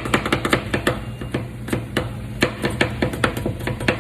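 Metal spatulas chopping and tapping rapidly on the frozen steel plate of a rolled ice cream machine, an irregular run of sharp metallic strikes several times a second: the chopping and mixing step of making rolled ice cream.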